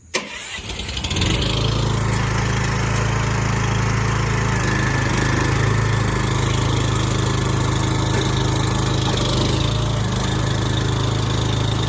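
Pack Rat loading truck's engine and hydraulic lift running steadily as its loading arms extend; it starts abruptly and builds over about a second.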